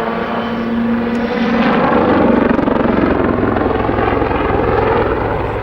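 Army Air Corps Lynx helicopter's rotor and engines running hard through a backflip display manoeuvre, a steady pulsing rotor noise that grows a little louder and deeper about two seconds in.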